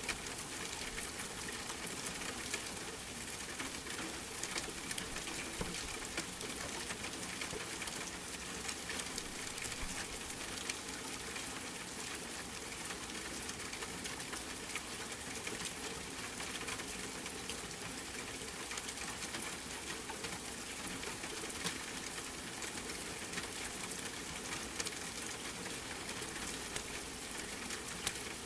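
Steady rain with a wood fire crackling, its small sharp pops scattered irregularly through the even hiss.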